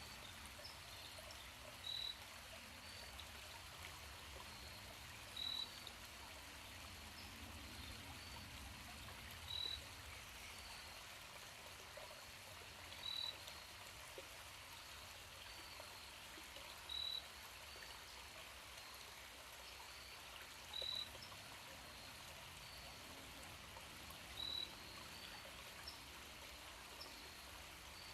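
Faint, steady sound of flowing water, with a short high-pitched note repeating about every four seconds and fainter high notes in between.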